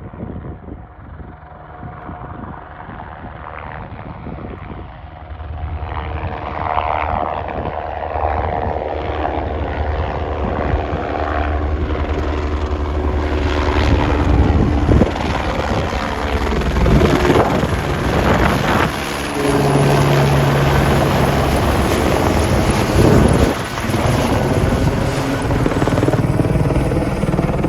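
Helicopter approaching, its sound growing steadily louder over the first half, then running loud and close.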